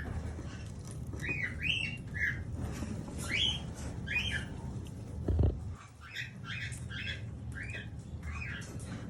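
A flock of budgerigars chattering in short, repeated chirps and squawks over a steady low hum, with one dull thump about halfway through.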